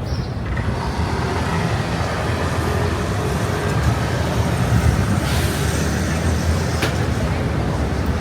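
Road traffic: a steady low rumble of passing vehicles, with a rising hiss of a vehicle going by about five seconds in and a short click near the end.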